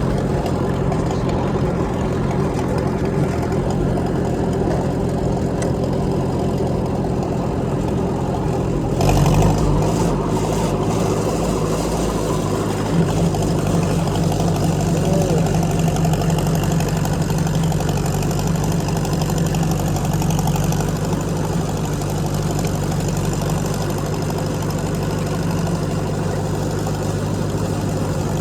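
Tractor engine running steadily while pulling a brush hog through grass; its note shifts about nine seconds in, with a brief louder burst.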